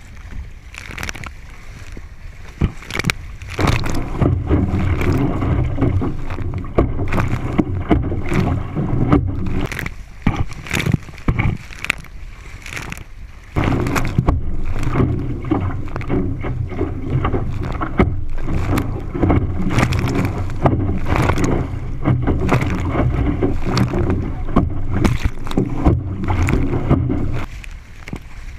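Water rushing and splashing against the hull of a four-man sailing canoe under way, with wind buffeting the microphone; frequent sharp slaps of water, and the rush grows louder about halfway through.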